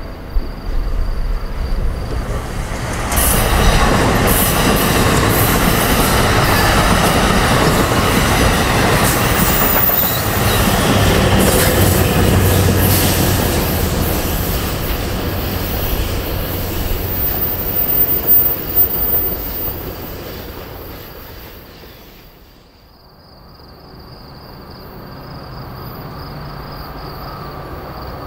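NJ Transit commuter train with an ALP-45DP locomotive going by: a loud rumble and clatter of wheels on rail with high-pitched wheel squeal, fading away about twenty seconds in. After a break near the end, the next train is heard faintly in the distance.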